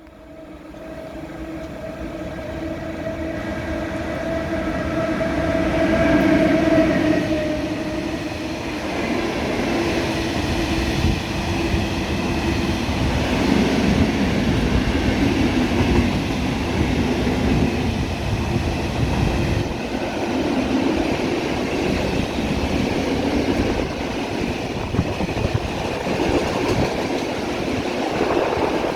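Polish ET22 electric locomotive and its train passing close by. A humming tone rises in loudness over the first six seconds and dies away at about seven seconds, then the long steady rumble and clatter of wagons rolling past carries on to the end.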